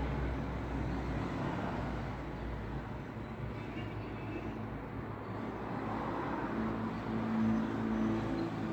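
Road traffic noise: a steady rush of passing vehicles, with a low engine hum coming in about two-thirds of the way through.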